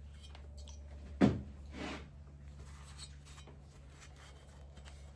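Quiet workbench handling of parts: a single sharp knock about a second in, a softer one just after, and a few faint clicks over a low steady hum.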